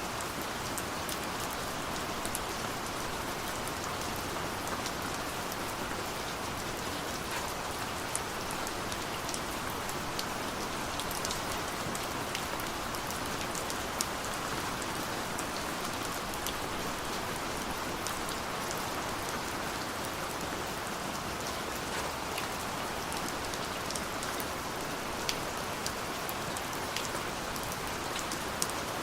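Steady rain falling, an even hiss dotted with the small ticks of individual drops striking nearby surfaces.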